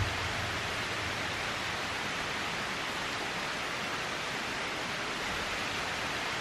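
Steady, even hiss of water, heavy rain or rushing water, with no breaks or distinct drops.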